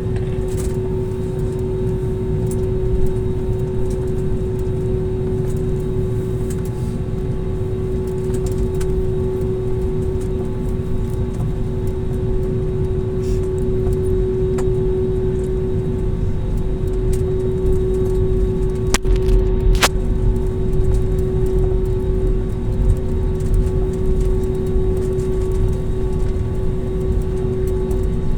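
Airliner cabin noise while taxiing after landing: a steady engine hum with one constant tone over a low rumble. Two sharp clicks come about two-thirds of the way through.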